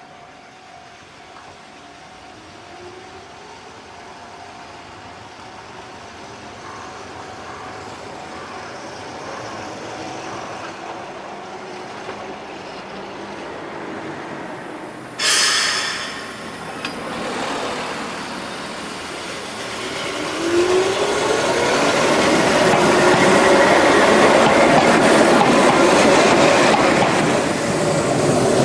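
Keihan Ishiyama-Sakamoto Line train running on the rails, growing steadily louder as it comes closer. A brief loud sound breaks in about halfway through. Later the train's motor whine rises in pitch as it gets louder and passes close.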